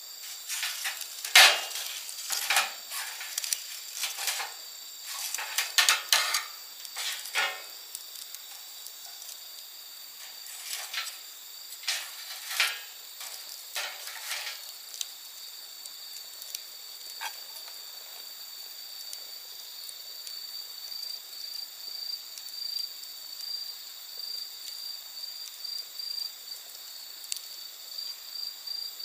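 Wood bonfire crackling with sharp pops, thick in the first half and sparse after. Steady high insect chirring, likely crickets, runs underneath.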